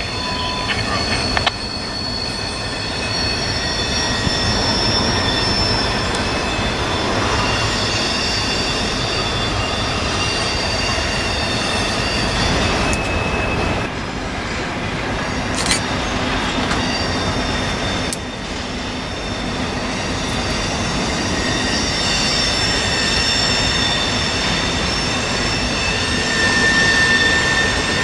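Freight train with double-stack container cars rolling across a stone arch bridge: a steady rumble of wheels on rail, with high-pitched wheel squeal rising and fading over it.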